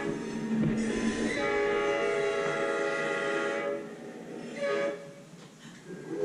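Train horn blowing: a long steady blast of a few seconds, then a short blast.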